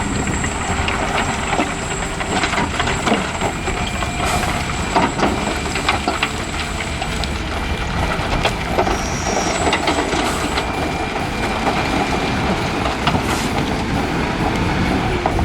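Heavy dump truck's engine running under a steady din of clattering and rattling, with many small clicks and knocks throughout.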